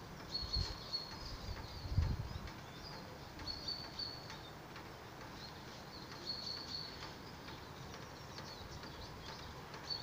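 Small songbirds singing short, high-pitched chirped phrases, repeated every second or two. A couple of low thumps sound in the first two seconds, the loudest about two seconds in.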